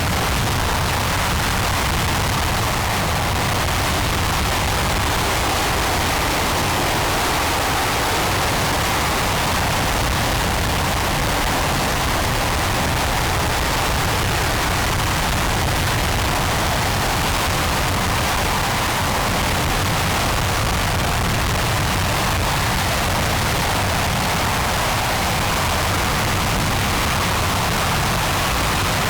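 RS-25 liquid-hydrogen/liquid-oxygen rocket engine firing steadily on a test stand: a loud, even rush of noise that holds constant, with no change in level.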